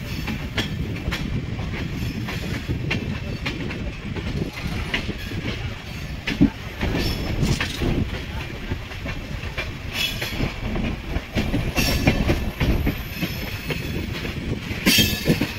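Indian passenger train running over the tracks, heard from aboard a coach: a steady low rumble with wheels clicking over rail joints and points, and a brief high-pitched screech near the end.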